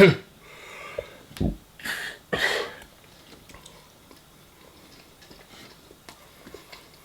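A person eating at the microphone: a couple of loud breaths or sniffs about two seconds in, then soft chewing and mouth clicks.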